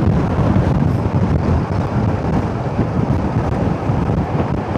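Wind buffeting the microphone over the steady low rumble of a motorcycle riding on the road.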